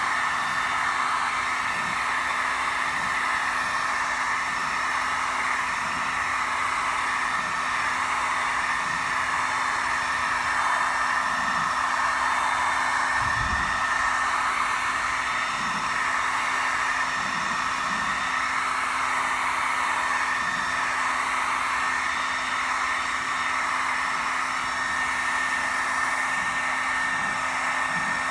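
Heat gun blowing steadily with a constant whir and a thin high whine, heating the sheet metal of a dented quarter panel before the dent is pushed out. A single dull bump about halfway through.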